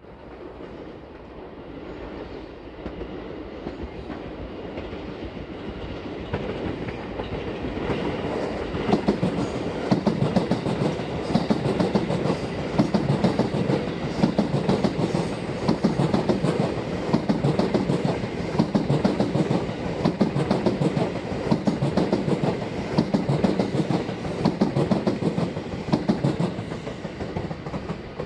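A JR West Special Rapid Service electric train approaching and passing close by, its wheels clattering over the rail joints in a steady clickety-clack. The sound builds over the first several seconds, stays loud with rapid repeated clicks, and falls away near the end.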